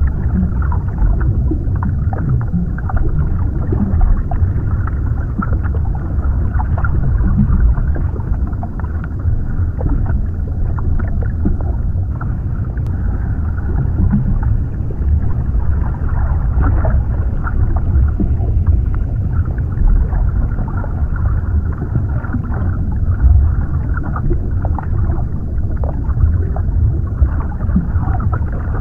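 Underwater ambience: a steady, muffled low rumble of water with faint crackling scattered through it and little high sound above it.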